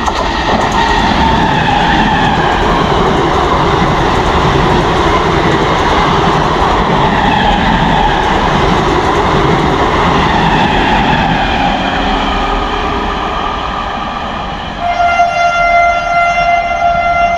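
An express train of ICF coaches passing at speed close by: a loud, steady rush of wheels on rails and rumbling coaches that eases off about fourteen seconds in. Near the end a steady pitched tone with several overtones holds for a couple of seconds.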